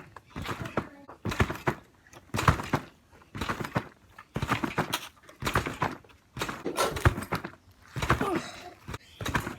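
A bike bouncing on a trampoline: a steady run of thuds as the bike lands on the mat, about one bounce a second.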